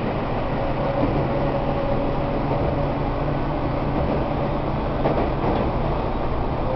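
Tobu 1800 series electric train running at speed, heard from inside a passenger car: a steady rumble of wheels on rail with a steady hum from the running gear.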